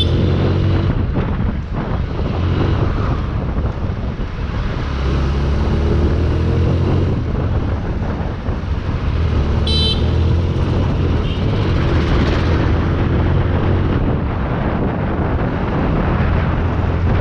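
Road traffic with vehicle engines running and passing. A vehicle horn toots briefly about ten seconds in.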